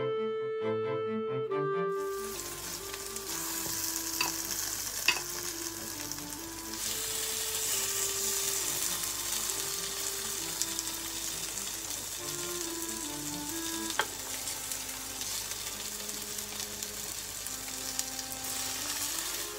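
Butter sizzling steadily in a nonstick frying pan as thick slices of pumpkin French toast fry, starting about two seconds in, with a few sharp clicks along the way. Soft background music plays underneath.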